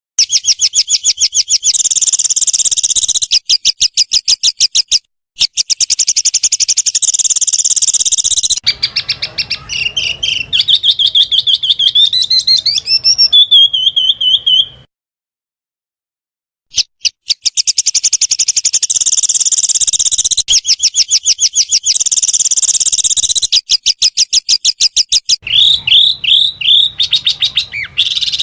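Small songbirds singing rapid-fire 'tembakan' trills, fast strings of sharp repeated notes broken by hard cuts to silence. A run of rising and falling whistled notes comes about ten seconds in, then a two-second gap, then the fast trills again.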